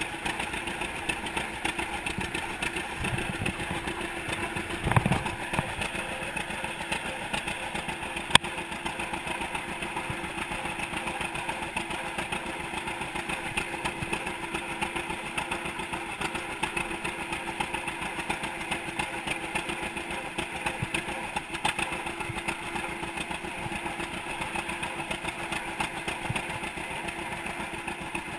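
1942 John Deere Model A's two-cylinder engine running steadily at idle on its first run after being freed from a stuck state. A brief thump about five seconds in and a single sharp click a few seconds later.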